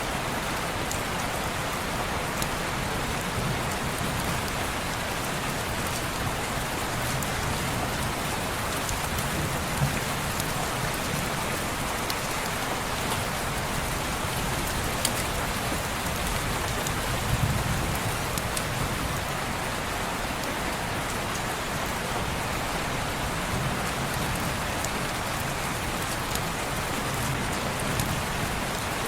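Steady rain falling on window glass, an even hiss with scattered sharp drop ticks and a low rumble that swells and fades. A few louder ticks stand out in the middle.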